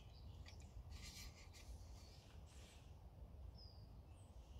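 Near silence in woodland: a few faint, short, high bird chirps, with a little soft rustling about a second in.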